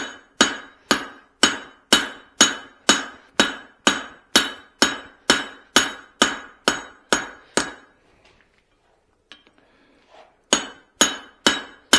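Blacksmith's hand hammer striking a hot hammer head with a drift in its eye on the anvil, steady blows with a metallic ring, about two a second. The blows stop for about two and a half seconds about eight seconds in, then resume with a few more.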